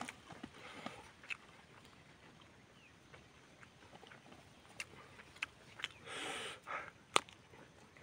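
Close-up eating sounds of a man chewing rice and spicy chicken eaten by hand: scattered wet mouth clicks and lip smacks, a sniff a little after six seconds, and a sharp click just after seven.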